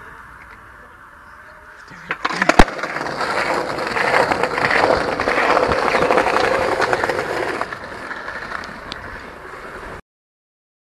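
Skateboard trick attempt: sharp clacks of the board about two seconds in, then the urethane wheels rolling loudly over rough pavement for about five seconds before fading away. The sound cuts off abruptly near the end.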